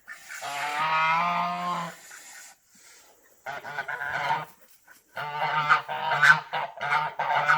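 Several geese honking, agitated: one long call, then a short burst and a rapid run of repeated honks.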